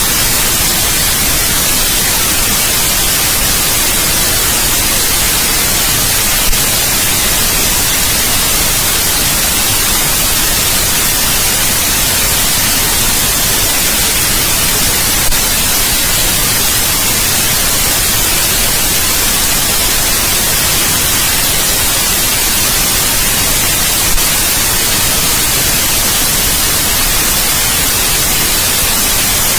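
Steady, loud white noise hiss that does not change, with three brief clicks about nine seconds apart.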